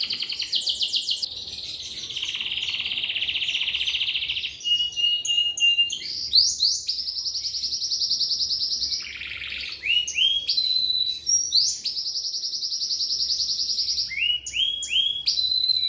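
Domestic canary singing a long, continuous song of fast rapid-fire trills, alternating with short rising notes and brief whistles, the phrase changing every second or two.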